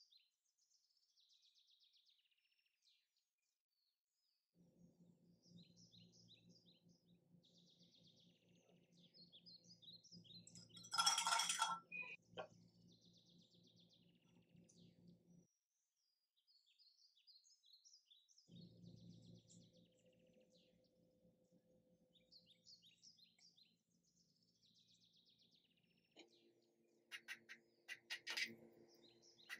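Faint bird chirping, repeated throughout, over a low steady hum that comes and goes, with one sharp clink about eleven seconds in.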